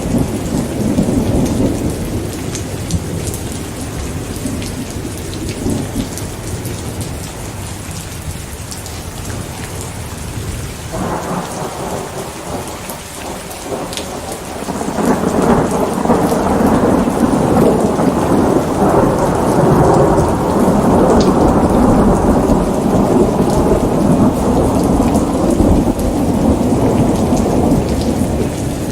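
Steady rain falling, with rolling thunder: a long, low rumble builds about halfway through and goes on for over ten seconds before easing near the end.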